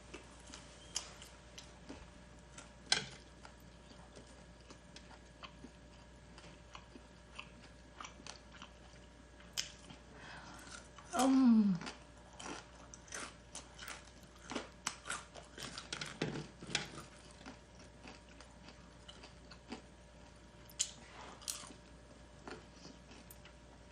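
Close-up eating sounds: crisp crunching bites and chewing of crunchy Korean spicy garlic fried chicken (kkanpunggi), irregular crackles throughout, thickest in the middle. A short hum of the voice falls in pitch about eleven seconds in.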